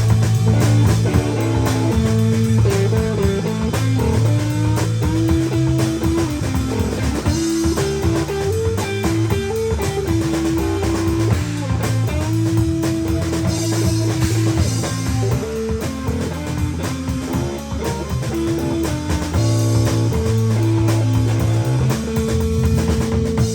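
A band playing an instrumental passage: a guitar melody moving in steps over bass and a drum kit.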